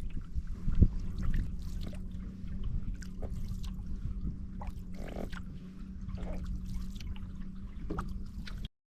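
Canoe paddling: water dripping and trickling off the paddle with small splashes, over a steady low rumble, with one sharp knock about a second in. The sound cuts off abruptly just before the end.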